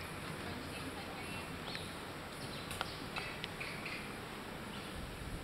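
Faint bird chirps over a steady background hiss, with a few soft clicks around the middle.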